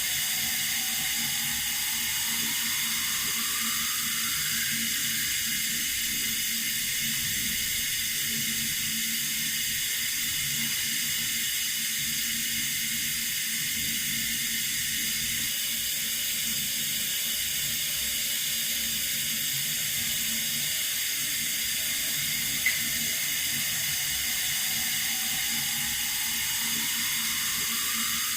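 Water running steadily from a tap, a continuous even hiss. A single sharp click about three quarters of the way through.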